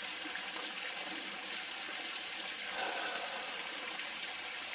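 Steady rush of running water in a koi pond, an even splashing flow with no breaks.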